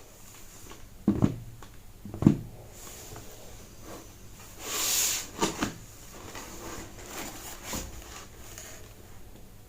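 Sneaker box being handled during unboxing: two sharp knocks about one and two seconds in, a brief sliding rustle around five seconds, then a few lighter taps.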